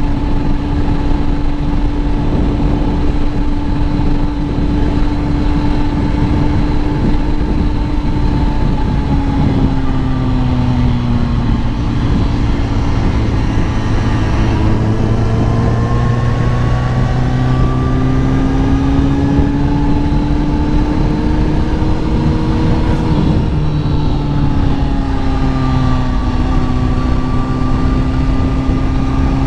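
Kawasaki ZX-10R's inline-four engine running at steady revs, with a steady rush of noise underneath. About a third of the way in the pitch dips, then climbs slowly, drops sharply a little past three-quarters of the way through and settles again.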